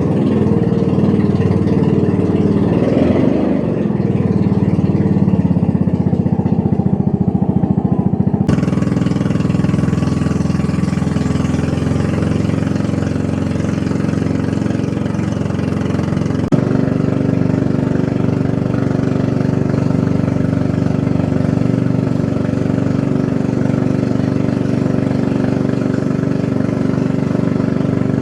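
An engine running steadily at an even speed, with abrupt changes in its sound about a third of the way in and again past the middle.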